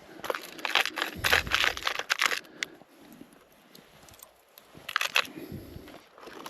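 Irregular crunching and crackling: a dense run of sharp crunches over the first two and a half seconds, then a shorter burst about five seconds in.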